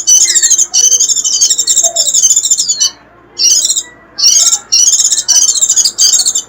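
White-eye (vành khuyên) giving its 'rít' song: rapid, high-pitched twittering in long unbroken runs, with two short pauses about three and four seconds in.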